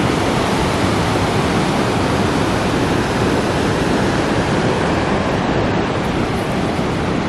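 Steady, loud rushing of water with an even hiss and no breaks.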